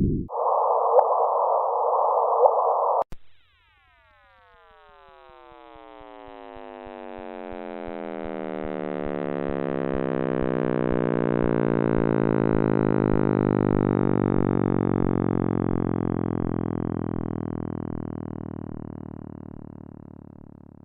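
Synthesized space-sound sonification: a brief band of hiss with a low hum, then a long chord of many tones all gliding slowly downward, swelling to its loudest midway and fading away, with faint low ticks beneath.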